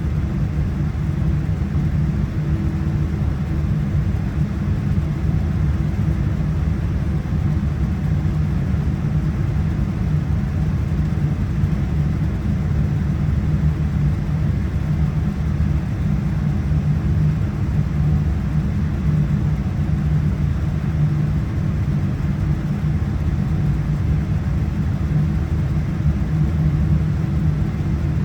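Steady low rumble of a Boeing 787-9's cabin with its Rolls-Royce Trent 1000 engines running, holding an even level throughout.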